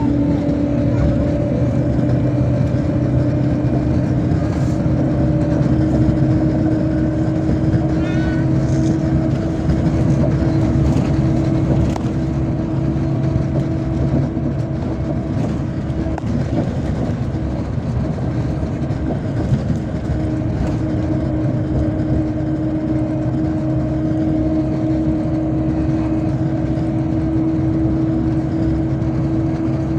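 MAZ-257 bus running at steady cruising speed, heard from inside the cabin: a constant engine and drivetrain hum with a steady whine over road noise.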